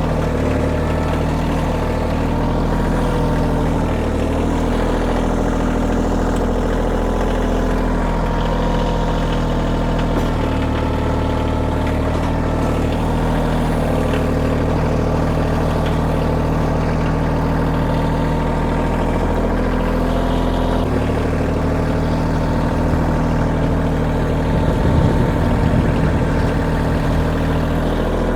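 Kioti tractor's diesel engine running steadily, its note shifting slightly about twenty seconds in.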